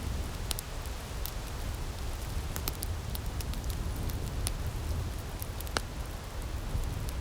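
Outdoor wood fire in a firepit crackling: irregular sharp pops and snaps over a steady low rumble, with one louder pop about six seconds in.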